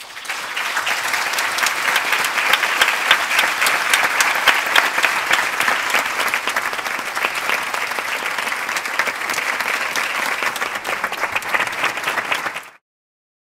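Audience applauding: a dense, steady clatter of many hands clapping that starts suddenly and cuts off abruptly near the end.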